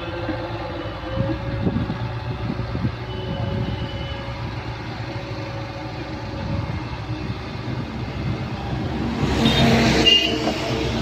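Excavator's diesel engine running steadily while it works, with scattered knocks and clatter from the bucket and arm. Near the end the sound swells louder, with a brief high squeal.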